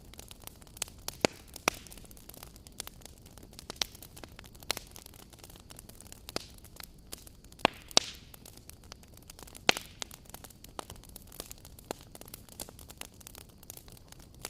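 Wood fire burning with a soft hiss and frequent irregular crackles, a few louder pops standing out.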